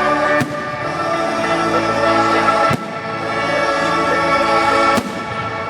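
Music of sustained, held chords, with firework bangs cracking over it three times, about every two seconds.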